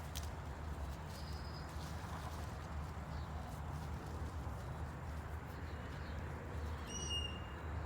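Outdoor ambience with a steady low rumble. A faint thin whistle comes about a second in, and a brief high bird call about seven seconds in.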